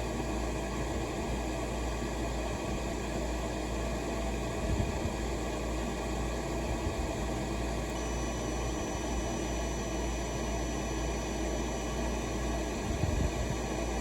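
Furnace draft inducer fan running with a steady whir while the pressure switch is being adjusted. A faint, high, steady tone comes in about halfway through.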